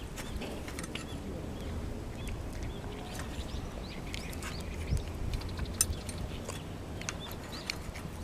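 Small birds chirping in short repeated calls over a steady low rumble, with scattered sharp clicks.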